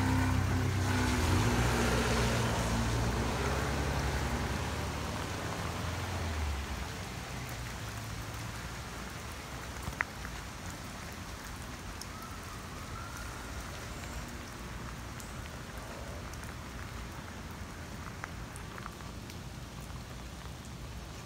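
Steady rain falling on wet pavement, an even hiss throughout. In the first few seconds a car passes on the wet street, its engine and tyres rumbling and fading away by about six seconds in. There is one sharp tap about ten seconds in.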